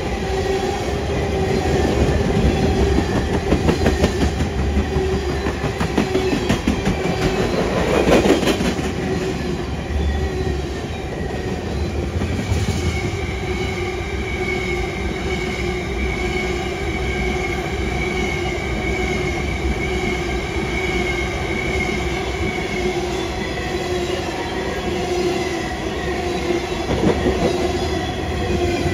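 Train rolling past on the rails, its wheels clicking over rail joints. A high, steady squeal of wheels on rail runs through the middle of the passage.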